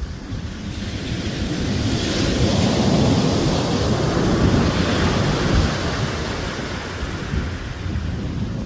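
Ocean wave breaking and rushing in, a rising swell of surf noise that peaks a few seconds in and then fades, with wind buffeting the microphone.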